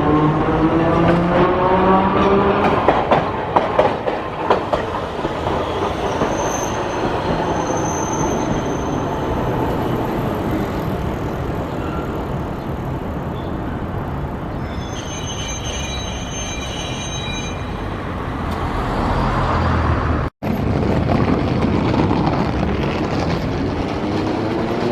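Hiroden streetcars running through a tram stop. One pulls away with its electric traction motors whining up in pitch while its wheels clatter over rail joints, and another starts up with the same rising whine near the end. About two-thirds of the way through there is a brief high wheel squeal.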